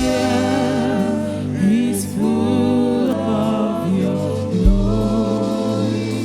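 Gospel worship music: voices singing long held notes over a band with a steady bass, with a low thump, likely a bass drum hit, about halfway through.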